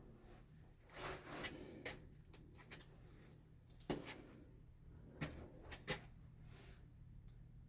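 Scattered light clicks and knocks, about six of them, over faint room tone.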